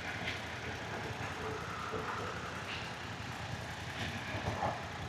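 Motorcycle engine running low and steady at slow speed.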